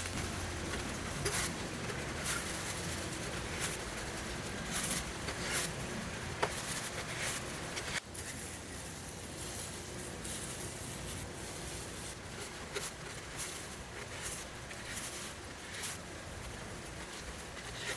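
Soft rustling and light clicking taps from small objects being handled over a steady background hiss, with an abrupt change about eight seconds in.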